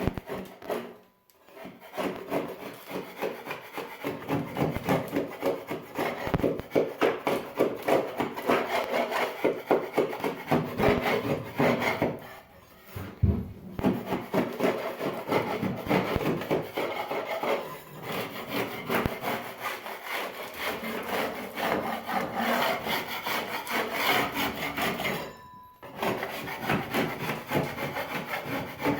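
Hand paint scraper scraping old paint off a surface in fast, repeated strokes, with three brief breaks: about a second in, near the middle and near the end.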